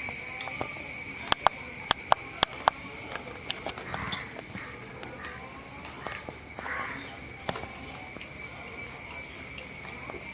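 A steady, high insect chorus. A run of sharp clicks comes between about one and three seconds in, with fainter clicks scattered afterwards.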